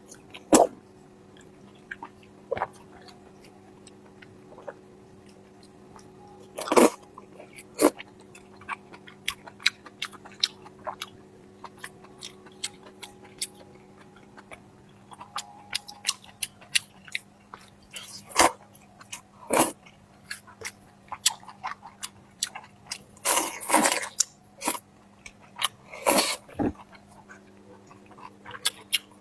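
Close-miked chewing and biting of food, with wet clicks and sharp crunches scattered throughout. They come more often and louder in the second half.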